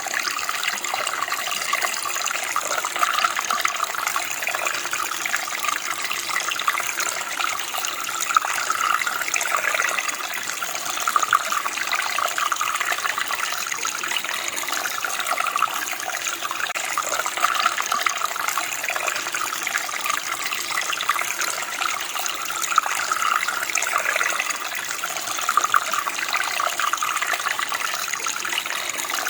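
Running water, a steady rushing and splashing flow of a stream or small cascade.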